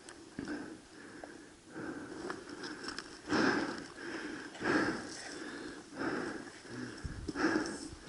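Heavy breathing close to the microphone, a breath about every second and a half, louder from about three seconds in.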